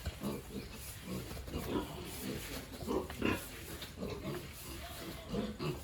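Pigs grunting in quick, short grunts, one after another, with a louder, higher-pitched grunt about three seconds in.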